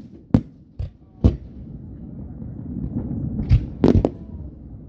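Fireworks going off: a scattered run of sharp bangs and booms, three in the first second and a half and a quick cluster of three near the end, over a low rumble.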